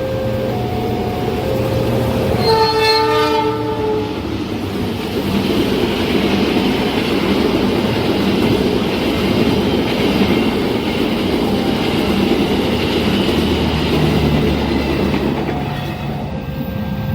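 A train passing a level crossing: the crossing's alarm beeps in two alternating notes, the locomotive gives a horn blast about two and a half seconds in, and then the train runs past with wheels rumbling on the rails for about ten seconds. The crossing alarm is heard again near the end.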